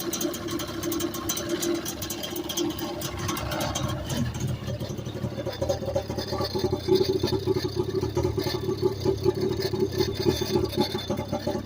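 Two-stroke engine of an old Sea-Doo jet ski running steadily, on its first run in 29 years; its rapid low pulsing grows stronger about four seconds in.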